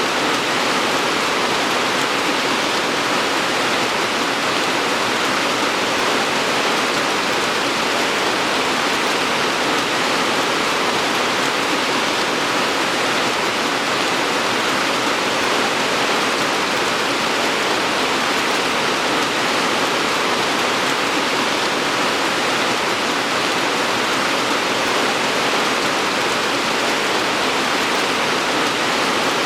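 Steady rain falling, a dense even hiss with no distinct drops or other events.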